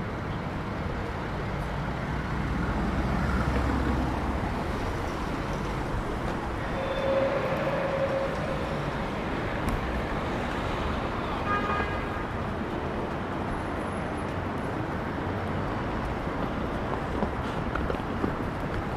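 City street traffic: a steady wash of passing cars and engines, with a brief pitched tone about a third of the way in and another short tone just past the middle.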